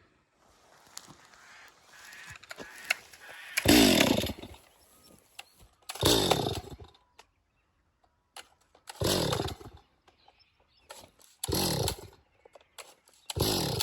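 Stihl chainsaw in five short, loud bursts a couple of seconds apart, its pitch swinging up and down within each burst.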